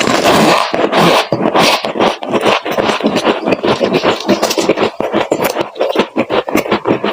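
Freezer frost being crunched close up: a dense, unbroken run of crisp crackling crunches.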